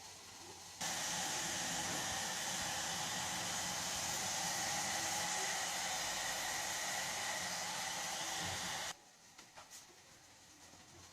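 A steady rushing noise from a small electric appliance, switched on about a second in and cut off abruptly about eight seconds later.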